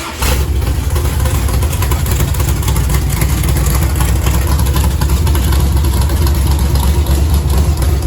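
Small-block V8 (358 cubic inches, high-lift cam) firing up and running loud and steady through open headers, with no mufflers or side pipes fitted.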